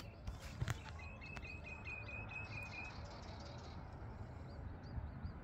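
A small bird singing a rapid series of about nine short, even notes on one high pitch, some five a second for two seconds, then a few faint higher chirps.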